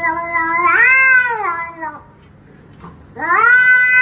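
A cat yowling in two long, drawn-out calls: the first swells up in pitch and falls away, ending about two seconds in; after a short pause a second call rises and is held.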